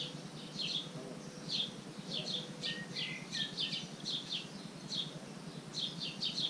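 A bird chirping over and over, short high chirps about two or three a second, keeping up without a break.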